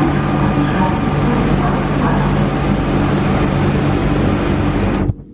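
London Underground 1992 Stock train at the platform: loud rumbling running noise with steady electrical humming tones, cutting off abruptly about five seconds in to a much quieter low rumble.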